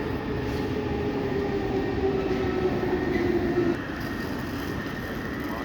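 Commuter train on a station platform, a steady rumble with a motor hum that drifts slightly down in pitch and cuts off about two-thirds of the way through.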